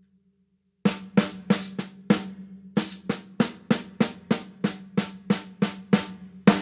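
A single drum struck over and over, about three hits a second, each hit ringing on the same steady pitch; the hits begin about a second in, with a short break midway.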